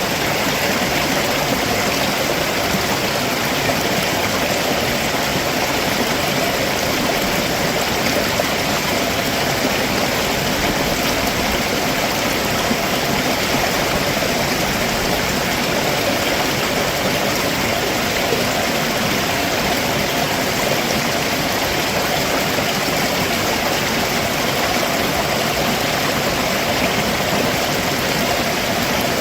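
Stream water running over rocks below a waterfall: a steady, even rushing with no change.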